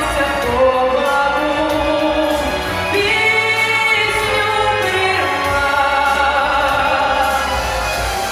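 Singing over musical accompaniment, with held, gliding sung notes.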